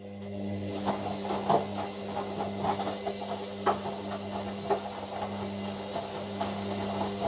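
Hoover washer dryer's drum motor running with a steady hum, turning the drum while the wash load knocks and clicks irregularly inside, then stopping abruptly near the end: one of the tumbles of the start of a colours 40 wash.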